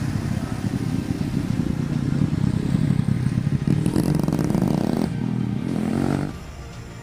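Truck engine running under load with rattling from the vehicle, the engine note rising from about four seconds in, then the sound drops away suddenly near the end as the throttle comes off.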